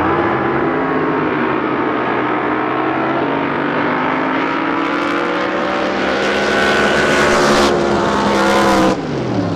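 Drag boat's racing engine at full throttle during a run, a steady pitched drone that grows louder over the last few seconds, then drops in level and falls in pitch near the end.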